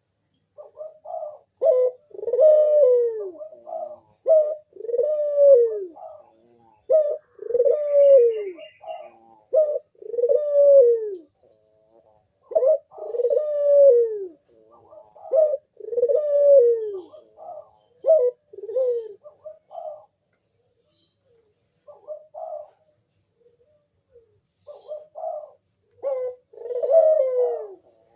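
Puter dove (Barbary dove) cooing in its repeated 'manggung' song: a run of low coos, each one dipping down in pitch, about one every one to two seconds. The calls pause for a few seconds past the middle, then start again near the end.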